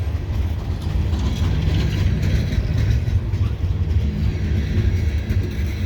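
Loaded coal train hopper cars rolling past, with a steady low rumble and the clicking and clatter of wheels on the rails.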